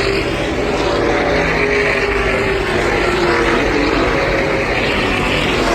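NASCAR Cup Series cars' V8 engines running on the track, a steady overlapping drone whose pitches waver slowly up and down.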